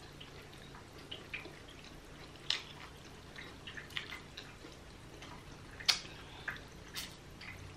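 A person chewing food close to the microphone, with wet mouth smacks and clicks at irregular intervals; the sharpest smack comes about six seconds in.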